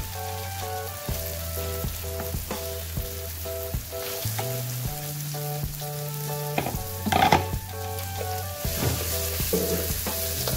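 Sliced shallots, garlic and chilies sizzling in hot oil with ground spice paste in an aluminium wok, a slotted metal spatula scraping and tapping the pan as they are stirred; one louder clatter about seven seconds in. Background music plays underneath.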